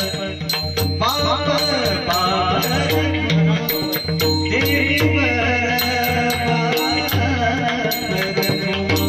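Marathi devotional bhajan music: a pakhwaj drum plays a steady rhythm under bright metallic strikes and a sustained melody.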